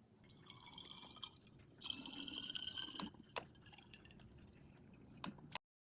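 Water running into a chinchilla's drinking bottle as it is refilled, louder for about a second near the middle, with a few sharp clicks of the bottle being handled; the sound cuts off just before the end.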